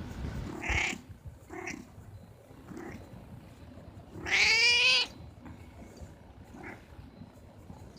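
A cat meowing: a few short, quieter mews, then one loud, long meow about four seconds in that rises and falls in pitch.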